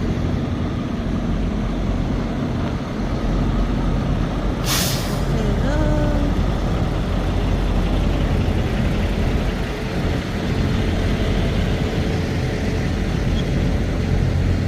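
Truck engine running steadily, with one short hiss of compressed air from the air brakes about five seconds in.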